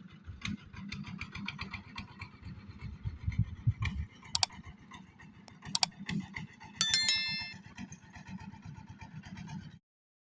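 Low rumbling noise, like handling or wind on the microphone, with two sharp clicks and a brief high ringing chime about seven seconds in. All sound cuts off abruptly near the end.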